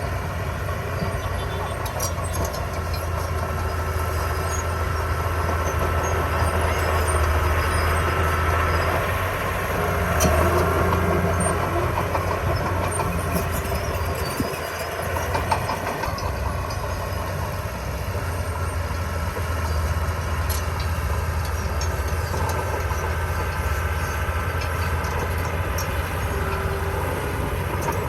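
Komatsu D20P bulldozer's diesel engine running steadily under load, with its steel tracks clanking and giving metallic squeaks. The engine note dips briefly about halfway through.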